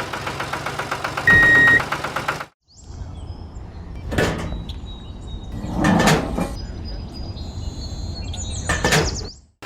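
The small motor of a DIY mini tractor running with a rapid, even pulse, in several clips cut together, with a few louder knocks or scrapes along the way.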